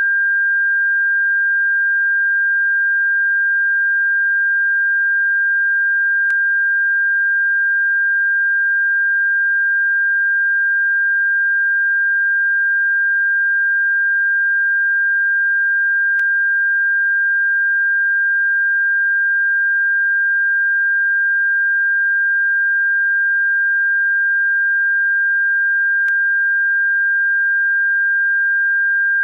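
Steady, single high-pitched electronic sine tone held unchanging, played as a bird-repellent frequency. Three faint clicks break it about ten seconds apart.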